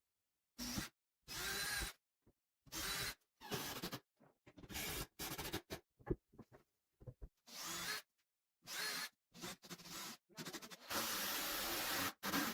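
Handheld power drill or screwdriver running in a series of short bursts, with a longer continuous run near the end, typical of driving screws.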